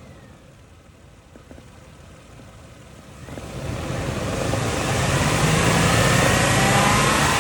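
2008 Toyota 4Runner's 4.0-litre V6 idling quietly during an engine test, then revved up about three seconds in and held at high revs, its pitch climbing near the end.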